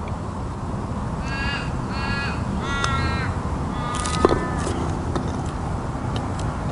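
A bird cawing three times in quick succession, the third call the longest, over steady outdoor ambience. A single sharp click comes a little after four seconds in.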